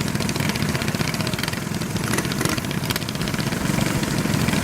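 Small minibike engine running steadily with a fast, even firing pulse, getting a little louder near the end.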